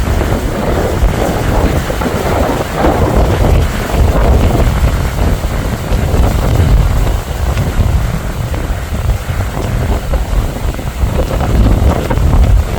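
Strong, gusting wind buffeting the microphone with a heavy, uneven rumble, the wind still blowing hard after a typhoon has passed.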